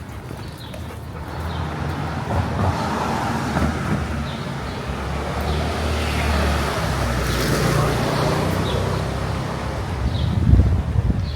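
A motor vehicle drives past close by on the street: a low engine hum and tyre noise swell up over several seconds, with the loudest moment a little before the end.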